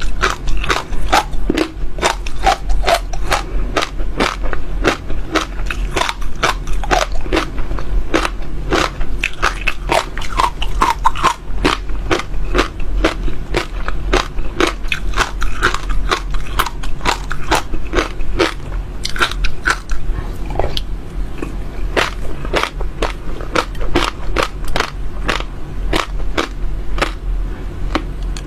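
Close-miked crunching and chewing of hard seeds in the mouth: a rapid, continuous series of sharp crisp cracks, several a second, as the seeds are bitten and crushed.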